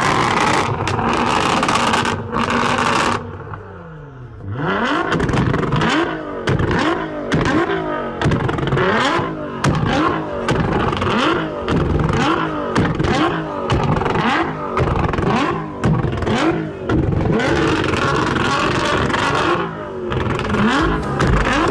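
Car engine being revved hard over and over in quick throttle blips, the pitch shooting up and dropping back about once a second, after a brief lull where the revs fall away.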